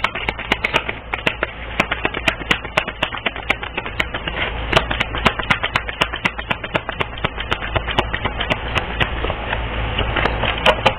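Rapid, irregular light tapping and clicking, several sharp taps a second, over a steady low hum.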